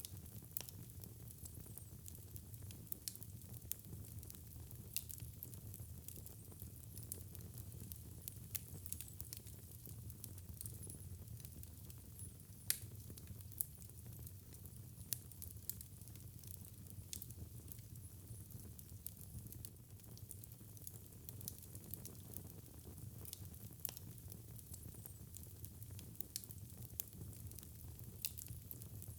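Fire burning in a fireplace: frequent small crackles and pops over a low steady rumble, with one louder pop about halfway through.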